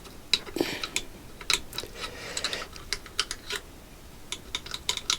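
Irregular light metallic clicks and taps as small metal parts of the motorcycle's engine mounts are handled and worked into line.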